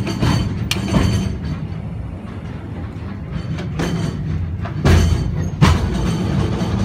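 Train coach rolling along the rails behind a steam locomotive: a steady low rumble of wheels on track, with several irregular knocks and clacks, the loudest about five seconds in.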